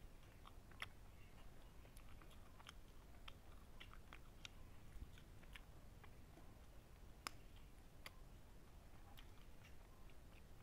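Faint close-up chewing: soft, irregular wet mouth clicks as food is chewed with the lips closed, with a sharper click about seven seconds in.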